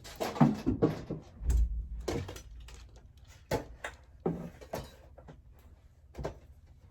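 Household handling noises: irregular knocks, thumps and rustling, with a heavy low thump about a second and a half in.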